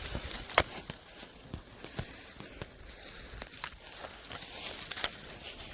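Footsteps through dry leaves and undergrowth: irregular crunches with scattered sharp crackles.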